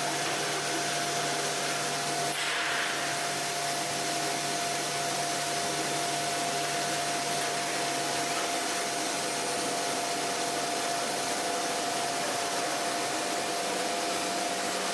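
CNC router running: a steady whirring machine noise with a constant whine, and a low hum that fades about halfway through.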